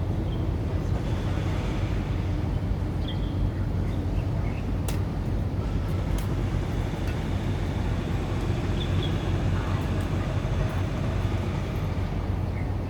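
Strong wind buffeting the microphone, a steady low rumble, with a few faint short high chirps now and then.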